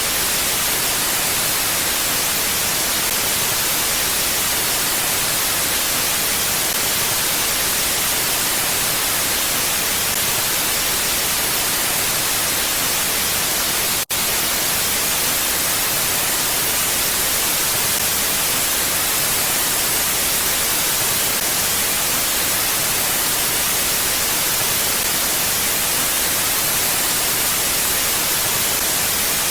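Steady wind hiss, very even and without gusts, strongest in the high frequencies, with a split-second break about fourteen seconds in.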